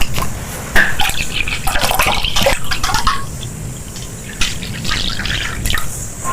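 Close-miked liquid sounds, gurgling and splashing, with many short clicks.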